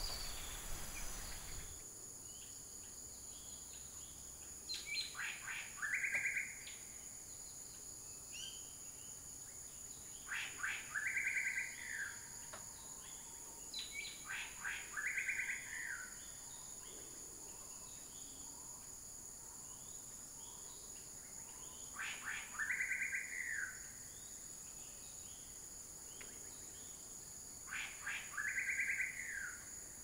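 A bird calls five times, each call a few sharp notes followed by a rapid trill that rises and then falls in pitch. A steady high-pitched insect drone runs underneath.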